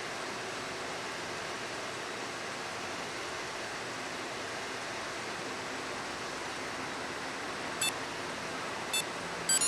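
Steady background hiss, then near the end two short electronic beeps a second apart followed by a quick run of beeps: the beep tones of a Viper 5904 two-way remote-start remote as its buttons are pressed to start the engine.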